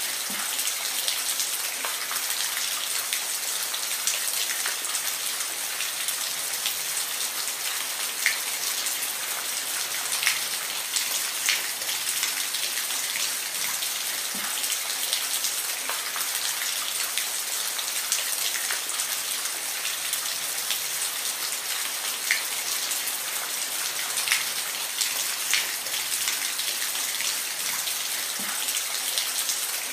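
Steady rain, an even hiss with scattered sharper drips and drops landing close by.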